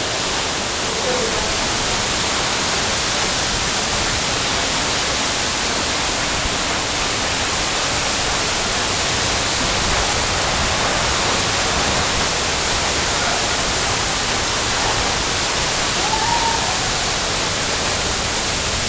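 Steady, loud rush of falling water from a nearby waterfall, with faint voices in the background now and then.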